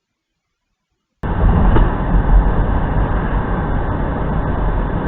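Steady road and engine noise of a moving car, as picked up by a dash camera, starting abruptly about a second in after silence.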